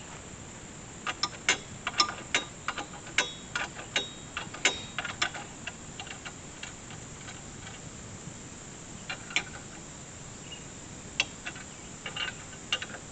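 Metal clicks and ticks of hand tools tightening the clamps of an Alaskan chainsaw mill, coming in irregular clusters, thickest in the first few seconds. Insects drone steadily behind them.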